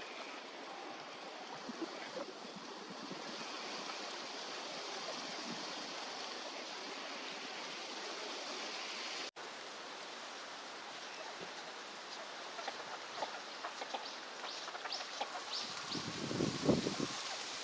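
Steady outdoor background hiss with scattered short duck calls, northern shovelers, in the second half. Near the end come a few louder low bumps.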